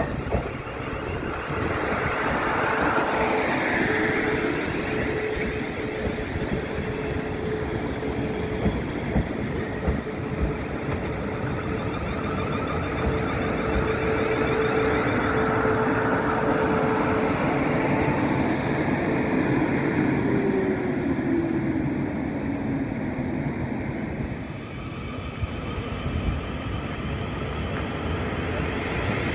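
Electric train running through the station: rumble of wheels on rail with a steady motor whine that slides down in pitch about two-thirds of the way through, as the train slows.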